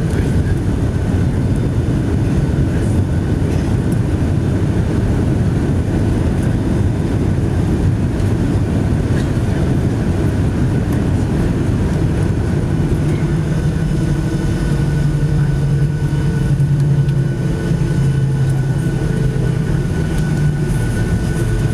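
Steady jet engine and airflow noise heard inside the cabin of a Boeing 757-200, with a thin constant whine. A low drone joins about halfway through.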